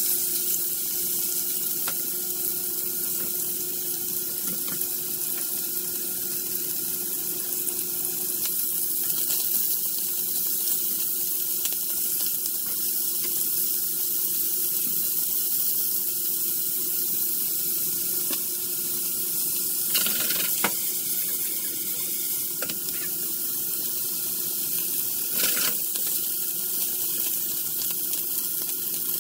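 Food frying in oil in a hot pan, a steady sizzle, with two brief louder knocks or scrapes in the second half.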